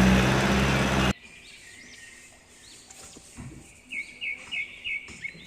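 Kubota RD 85 single-cylinder diesel engine running loud and steady while driving a water pump, cut off abruptly about a second in. A bird then chirps in a quick series of short calls near the end.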